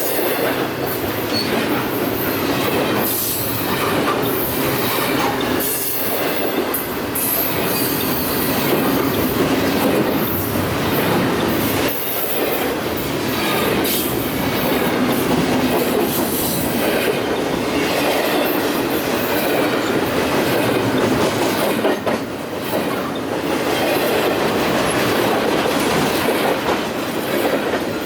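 Freight train cars rolling steadily past: a continuous rumble of steel wheels on rail, with irregular clicks as wheels cross rail joints and some wheel squeal.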